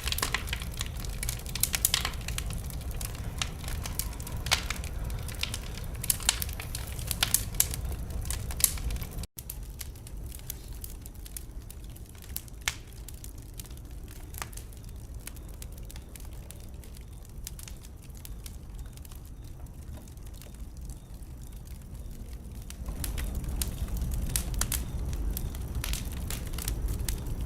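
Wood fire burning in a fireplace: sharp crackles and pops over a low rumble of flames. The crackling is dense at first, breaks off for a split second about a third of the way in, runs thinner and quieter after that, and swells again near the end.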